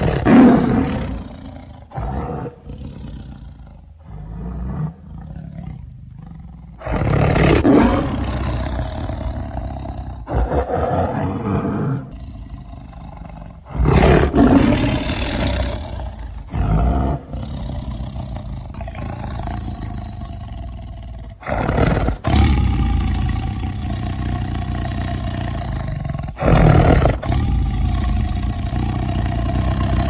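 Tiger roaring and growling: about seven loud, deep roars that each cut in abruptly, with low, rumbling growls carrying on between them.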